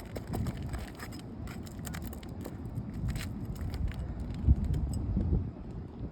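Small clicks and scrapes of a metal tool working against asphalt roof shingles as nails are pried out, over a low rumble of wind on the microphone that swells louder near the end.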